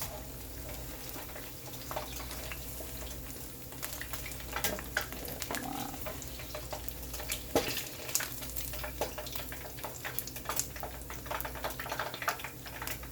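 Hot oil sizzling and crackling as chicken fritters deep-fry, with scattered sharp clicks and taps; the loudest comes about seven and a half seconds in.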